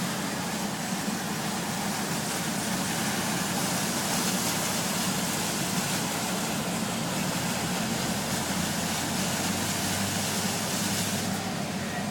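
A 12-tonne MAN truck's diesel engine running steadily at low revs as it drives through flood water, with a loud even rushing hiss over it.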